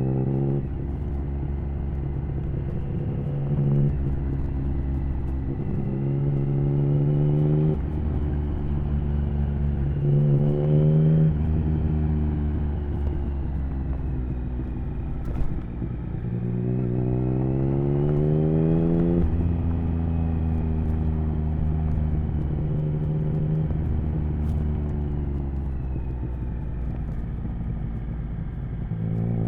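Triumph Speed Triple 1050's three-cylinder engine through an HP Corse Hydroform exhaust, riding under way. It pulls up through the revs several times, each climb ending in a sudden drop in pitch like a gear change, with steady cruising in between.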